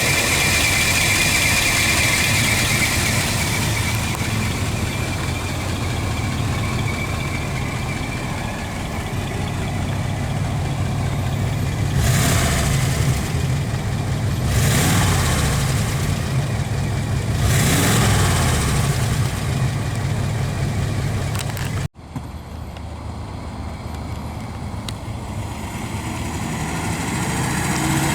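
1949 Ford Custom sedan's engine running at idle and blipped three times in quick succession midway, each rev rising and falling back. After an abrupt break near the end it idles more quietly.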